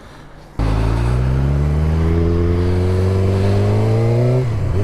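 Vehicle engine pulling away under acceleration, its pitch rising steadily for about four seconds, then a short drop like a gear change near the end before it runs on at a steady pitch.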